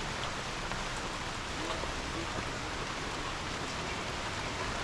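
Steady rain falling on rainforest foliage.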